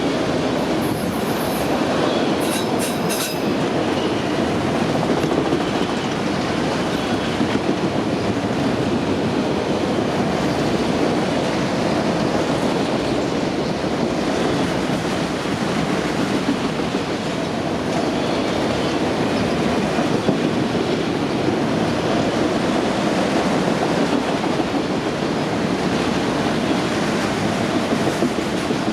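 Railroad cars rolling steadily past, their wheels rumbling over the rails, with a brief high-pitched wheel squeal about two seconds in.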